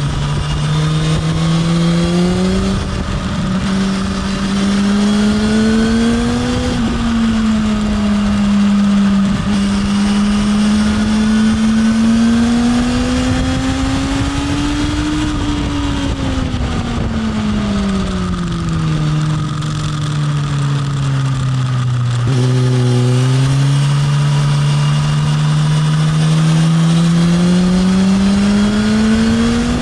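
Sport motorcycle engine on track, on board: the engine note climbs under acceleration, falls away as the rider slows for a corner, and climbs again near the end.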